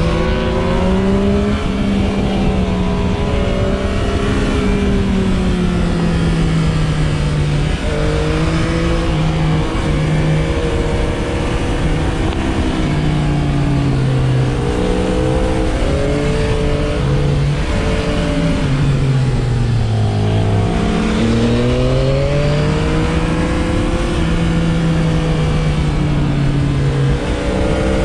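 Sport motorcycle engine running under load, its pitch climbing and falling repeatedly as it accelerates, shifts and slows, with heavy wind rumble on the camera microphone.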